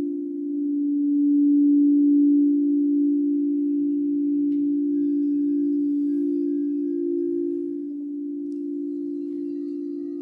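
Singing bowls sounding a long, sustained low tone with a slow wavering beat, swelling about two seconds in and easing off after about eight, with faint high ringing overtones above.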